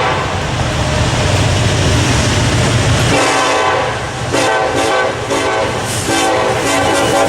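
Diesel locomotive horn sounding over a passing freight train: a heavy low rumble fills the first three seconds, then the multi-note horn blows again about four seconds in, in several blasts with short breaks.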